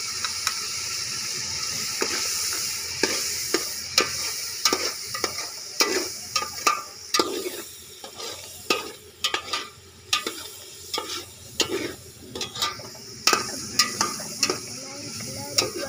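Onions and red chilli powder frying in oil in a metal pot, sizzling steadily, while a slotted metal spatula stirs and scrapes against the pot with repeated sharp clicks from about three seconds in.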